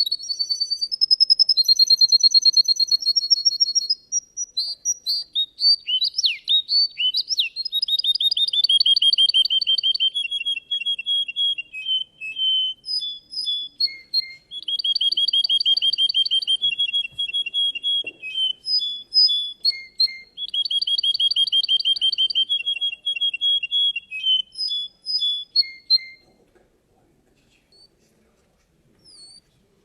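Russian canary singing a long song of rapid trills and rolls, phrase after phrase with short breaks, then falling mostly silent with a few single notes near the end.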